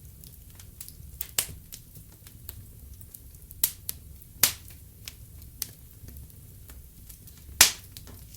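Wood fire crackling in a fireplace: scattered sharp pops and snaps over a low steady rumble, with the loudest pop near the end.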